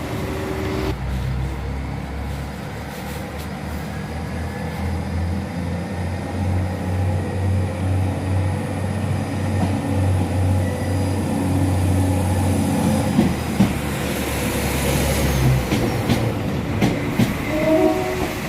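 Northern Ireland Railways diesel multiple unit pulling away from the platform: its diesel engine powers up about a second in and runs with a steady low hum, which cuts away a few seconds before the end. A few clicks follow.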